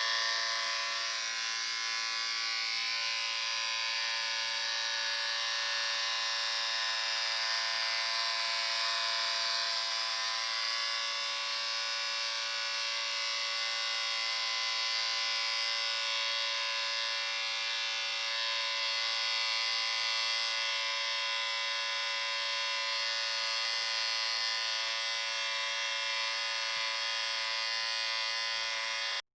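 Electric shaver running with a steady, high buzz, unchanging throughout; the sound cuts out for an instant at the very end.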